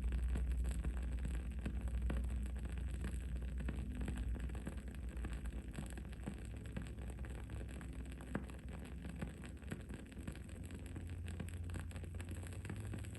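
Wood-wick candle crackling: many small, irregular pops and snaps over a steady low rumble of background noise that eases off a few seconds in.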